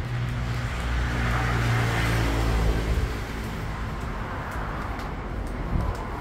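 Road traffic: a motor vehicle passes close by. Its engine hum and tyre hiss swell about two seconds in, then ease off to a lower traffic background.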